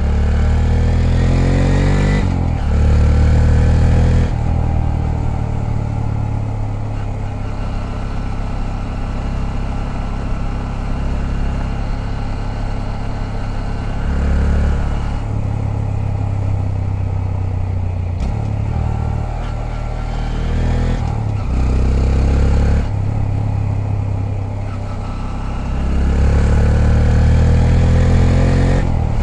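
Honda Grom's 125 cc single-cylinder four-stroke engine riding along. It revs up through the gears with a short dip at each shift about two and four seconds in, settles into steady cruising, then picks up speed again a few more times toward the end.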